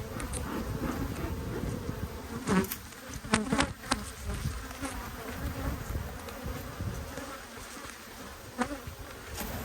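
Honeybees buzzing in numbers over an opened Langstroth hive of a strong colony, with a few sharp clicks and knocks about two and a half to four seconds in and once more near the end.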